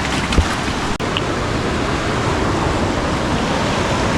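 Steady rush of surf and heavy rain, with a single short low thump just under half a second in.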